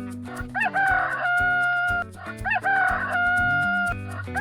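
Rooster crowing cock-a-doodle-doo twice, each crow rising at the start and then held long, with a third crow beginning near the end. Light children's background music with a steady beat plays underneath.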